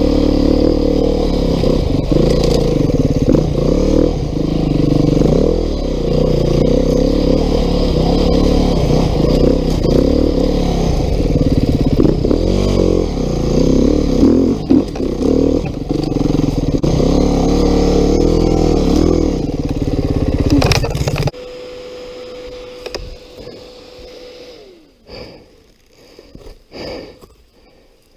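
Beta 390 RR-S single-cylinder four-stroke enduro engine revving up and down, with pitch that rises and falls under throttle on the trail. About three-quarters of the way through it cuts out suddenly, and a few light knocks and rattles follow.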